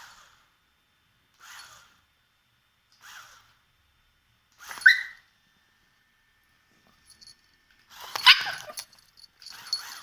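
Chihuahua puppy giving a series of short, high yaps, about one every second and a half, with two louder ones about five and eight seconds in.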